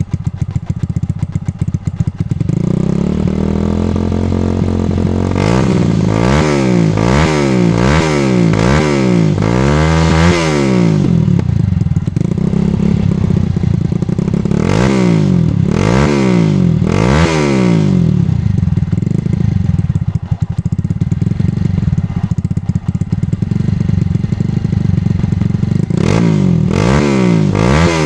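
Motorcycle engine with a racing-style exhaust idling and revved in repeated throttle blips, the pitch climbing and dropping back each time; steady idle between the bursts of revving.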